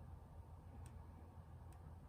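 Near silence with a low hum, broken by two faint, short clicks almost a second apart.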